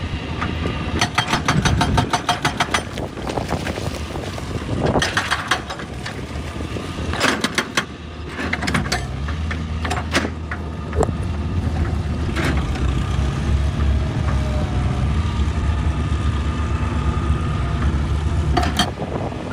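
Excavator's diesel engine running, its low drone becoming steadier and stronger through the second half. A fast rattling clatter comes about one to three seconds in, and several single sharp knocks are scattered through.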